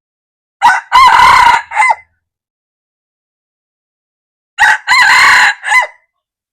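Male red junglefowl crowing twice, each crow a short opening note, a longer held middle note and a clipped final note.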